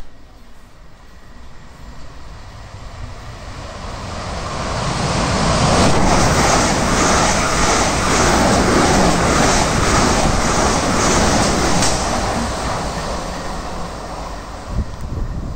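A train running through the station: a rumble with wheel and rail noise that builds over several seconds, is loudest in the middle with a quick regular beat, then eases off. A short sharp click at the very start.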